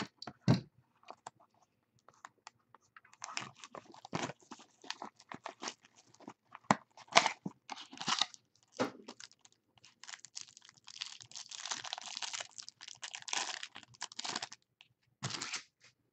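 A trading card pack wrapper being torn open and crinkled, with scattered clicks and taps as the cards are handled. The longest run of crinkling comes about ten seconds in and lasts several seconds.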